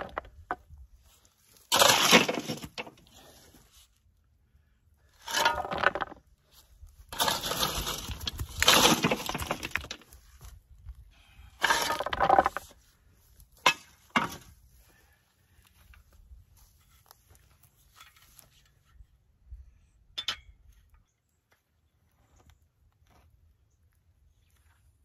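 Big rocks being dropped into a post hole around a fence post, clattering and knocking against one another. Several loud drops come in the first fifteen seconds, then only a few faint knocks.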